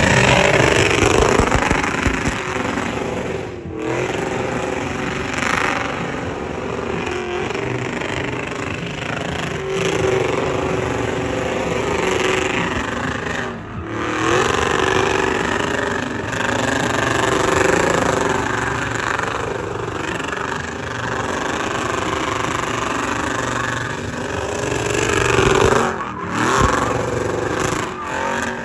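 Motor vehicle engines running and revving, the level rising and falling over the stretch.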